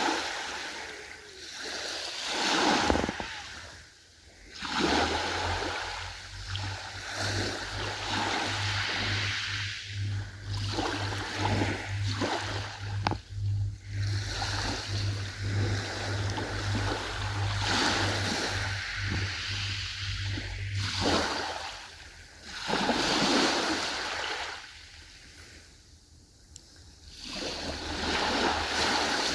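Ocean waves washing in and drawing back in swells a few seconds apart. A low steady hum runs under them through much of the middle, fading out about two-thirds of the way in.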